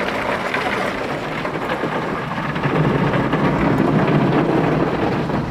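Automatic car wash heard from inside the car: water spray and the wash's spinning brushes whacking the roof and body, a steady rushing noise that swells about halfway through.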